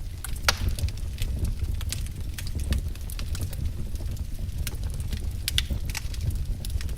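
Wood fire crackling: irregular sharp pops and snaps over a steady low rumble of the burning logs, with a louder pop about half a second in.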